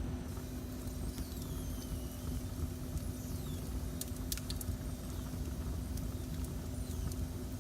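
Wood fire burning in a fireplace: a steady low rumble with a few sharp crackles about four seconds in, and faint high whistling glides.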